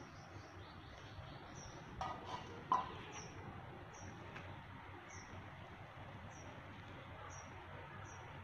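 A bird repeating a short, high chirp about every two-thirds of a second over a faint outdoor hiss. A couple of short, louder sounds come about two to three seconds in.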